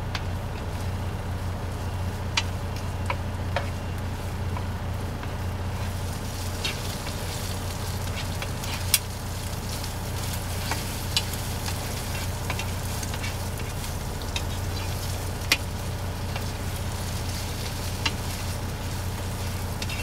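Chorizo and eggs sizzling in a frying pan, with scattered sharp clicks of a utensil stirring against the pan, over a steady low hum.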